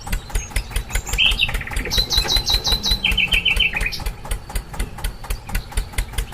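Bird chirping: a few runs of quick repeated notes, each run at a different pitch, over a rapid, steady clicking of several ticks a second.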